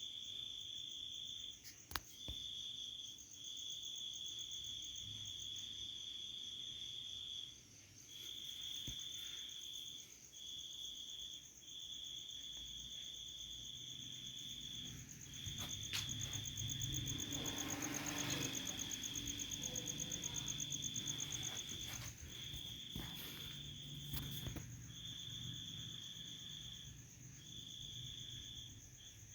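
Insects trilling: one steady high trill broken into phrases of one to four seconds, joined for several seconds in the middle by a louder, fast-pulsing call.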